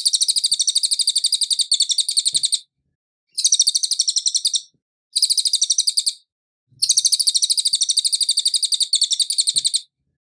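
A cililin singing its song in four fast, chattering bursts of high, rapidly repeated notes, separated by short pauses.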